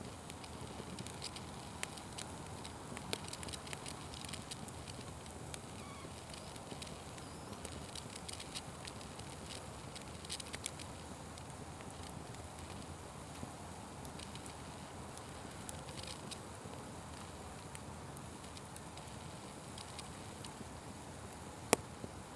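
Open fire crackling steadily, with scattered small pops and one loud sharp pop near the end.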